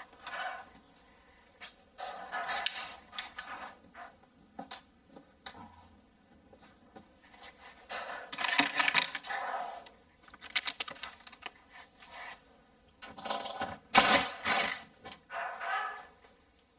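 Small hard objects being handled and taken out: light clatter, clicks and scraping in several bursts, the loudest about fourteen seconds in.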